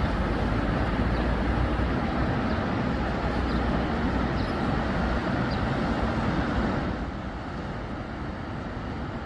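Steady rush of wind and sea with a heavy, fluctuating low rumble, becoming quieter and duller about seven seconds in.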